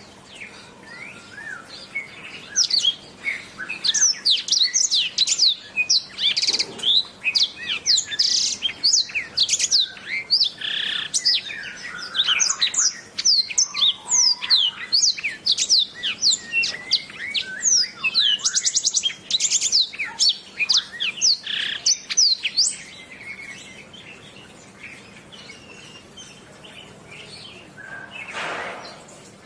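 Domestic canary singing a long, fast song of rapid chirps, whistled notes and trills, then falling quieter for the last several seconds. A short rustling noise comes near the end.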